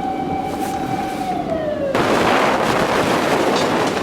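A steady, high whistling tone that slides down in pitch and stops abruptly about two seconds in. It gives way to a loud rush of typhoon wind and rain.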